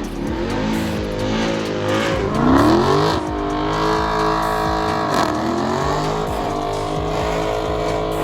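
A car engine revving hard at high revs, its pitch climbing sharply about two seconds in and dipping and climbing again just after five seconds, as the car spins doughnuts with its tyres.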